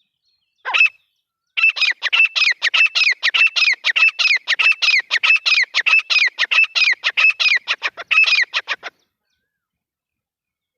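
Grey francolin calling: a single sharp note about a second in, then a fast run of sharp, repeated notes, about five a second, that stops abruptly near the end.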